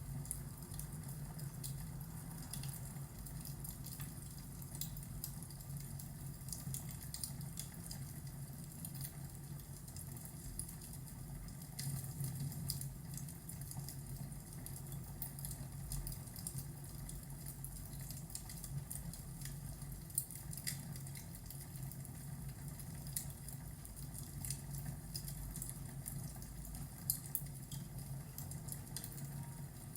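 Fireplace and rainstorm ambience: a wood fire crackling with irregular sharp pops over a steady rush of rain and a low rumble.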